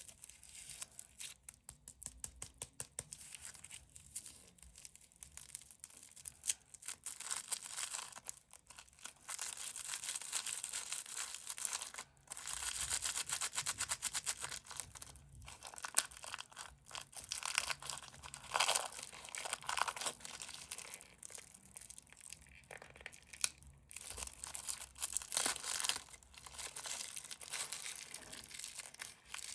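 Plastic candy wrappers crinkling and tearing in a long run of dense crackles, with a couple of longer unbroken stretches partway through.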